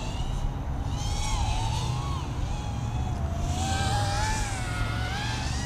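Racing quadcopter's brushless motors spinning three-blade DAL T4045 props, a whine that wavers up and down in pitch as the throttle changes and climbs higher near the end, over a steady low rumble.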